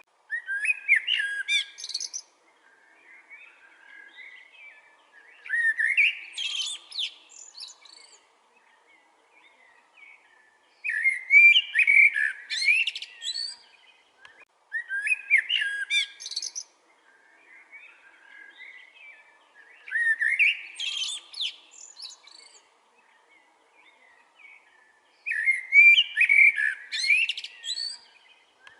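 Common blackbird singing: six separate song phrases about five seconds apart, each a fluty warble that breaks into high, squeaky twittering, with quiet pauses between.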